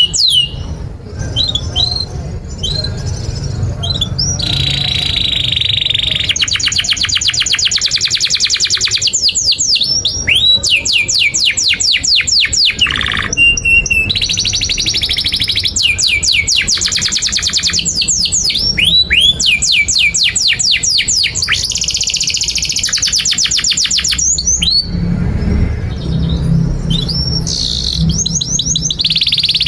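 Domestic canary singing a long, continuous song: fast rolling trills of rapidly repeated high notes alternate with falling whistled 'cuit' sweeps. A low rumble sits under the song, stronger near the end.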